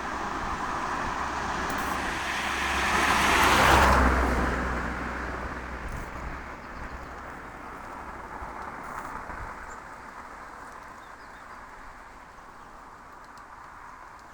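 A road vehicle passing by: its noise swells to a peak about four seconds in, then slowly fades away.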